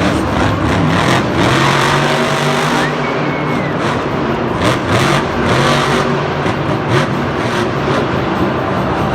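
Large vehicle engine revving up and down, loud and continuous, the pitch rising and falling several times.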